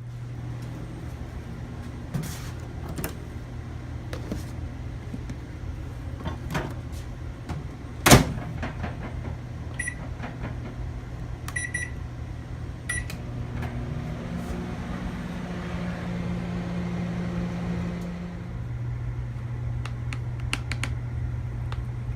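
Microwave oven running with a steady low hum that shifts higher for a few seconds near the end. A sharp knock comes about eight seconds in, and three short beeps follow about a second and a half apart.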